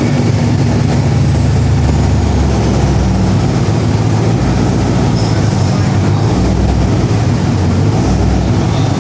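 Turbocharged, cammed 5.3-litre V8 (junkyard truck engine with a PT88 turbo) running steadily with a deep, even rumble.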